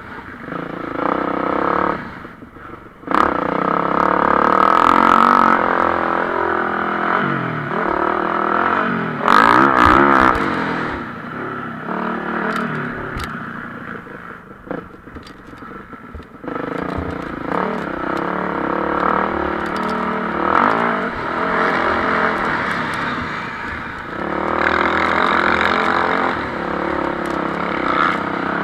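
MX1-class motocross bikes racing, engines revving up and down through the gears. Loudest around four and ten seconds in, quieter for a few seconds in the middle.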